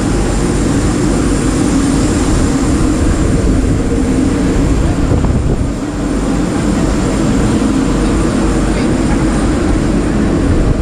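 Steady loud aircraft noise at an airport: a dense, even rumble with a thin high whine held above it.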